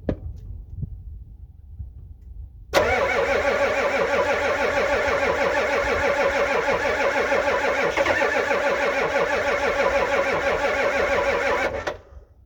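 Ford 6.9 IDI V8 diesel cranking on the starter for about nine seconds without catching, beginning suddenly and cutting off sharply near the end. A cold start with no working glow plugs, helped by starting fluid sprayed into the intake.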